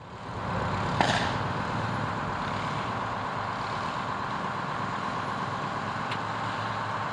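Fire truck engine idling steadily, with one sharp click about a second in.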